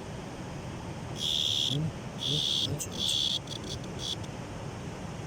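Cricket chirping, the sound made by its vibrating wings: three high-pitched trills of about half a second each, starting about a second in, followed by a few shorter chirps.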